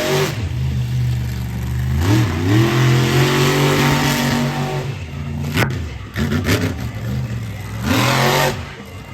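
Monster truck engine revving hard in repeated bursts, its pitch climbing and falling with each surge. There is one sharp bang about five and a half seconds in.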